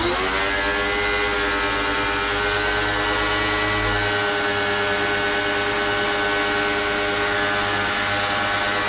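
Black & Decker electric pressure washer's motor switching on, whining up to speed in a fraction of a second, then running loud and steady.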